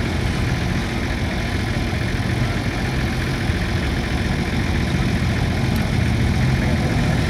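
1972 Ford F-250's gasoline engine idling steadily, getting slightly louder near the end.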